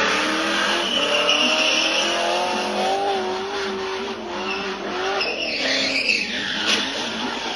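A car engine revving, its pitch climbing over the first few seconds, with tyres squealing and skidding. Near the end comes a rougher stretch of tyre noise and one short sharp knock.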